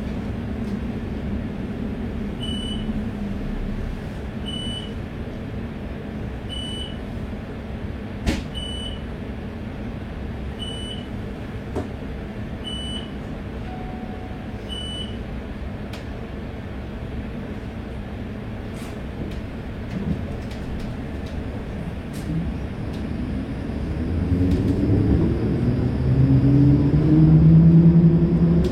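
Tram standing with a low rumble while a short high beep sounds about every two seconds, seven times. Near the end its electric traction motors start up, with a whine rising in pitch and getting louder as the tram pulls away.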